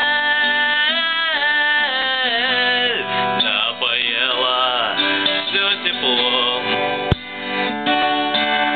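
Acoustic guitar strummed, with a wordless melody line that bends and wavers in pitch over it. A single knock about seven seconds in.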